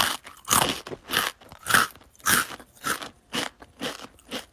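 A person chewing crunchy food, a crunch about every half second.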